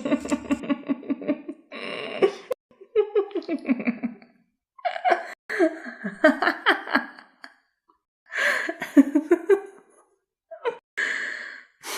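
Laughter: several bursts of pulsing, pitched laughing broken by breathy gasps and short pauses.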